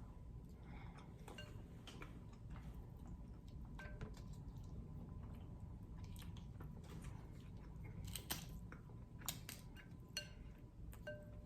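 Close-miked chewing and wet mouth sounds of someone eating seafood, soft and quiet, with a few sharper clicks in the second half.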